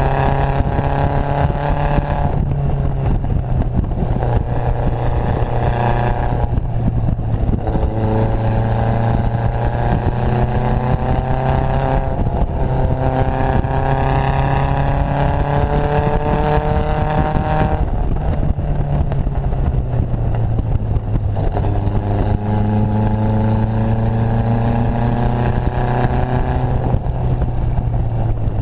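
Datsun Fairlady roadster's four-cylinder engine on Mikuni-Solex carburetors, pulling hard under acceleration. The engine note climbs steadily in pitch, then breaks off and starts again lower several times, as at gear changes. Wind and road noise rush past the open cockpit.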